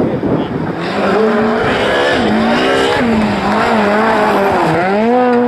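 Rally car engine running at high revs, coming in about a second in. Its pitch holds high, then falls and climbs again several times as the car shifts and lifts, with a deeper dip near the end before it rises again.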